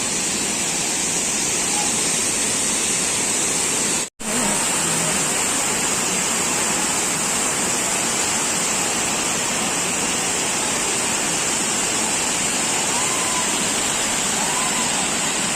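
Waterfall rushing steadily: an even roar of falling water that cuts out for an instant about four seconds in.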